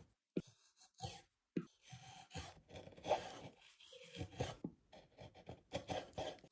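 Irregular rasping and scraping strokes of a hand tool working wood, broken by a few abrupt cuts to silence.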